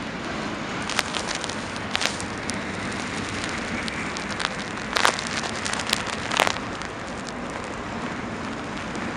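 Freight train of hopper cars rolling past: a steady rushing noise with scattered sharp clicks and clanks, the loudest about five and six and a half seconds in.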